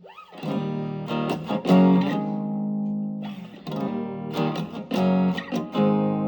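Electric guitar through an amplifier, with the Ibanez TS808 Tube Screamer not yet switched on. It opens with a short slide, then plays a phrase of strummed chords and picked notes that ring between strokes.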